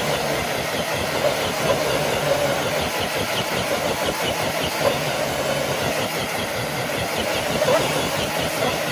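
Electric motor and geared drivetrain of a radio-controlled scale crawler truck whining steadily under load as it drags a weighted pull sled.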